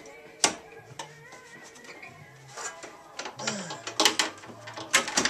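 Metal parts clinking and knocking as they are handled and fitted into a Nelson waterer, a series of sharp, irregular clanks with the loudest about half a second in and again around four and five seconds in.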